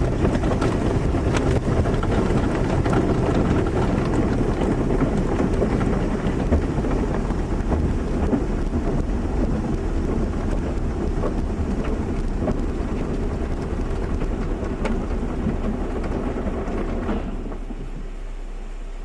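Car wash running: a loud, steady rushing wash of spray and machinery noise with scattered small clicks and knocks. Near the end it drops off, leaving a steady low hum.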